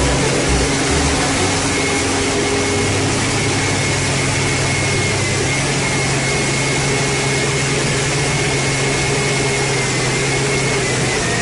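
A vehicle engine running steadily under a loud, even rush of noise, with a faint high whine held throughout.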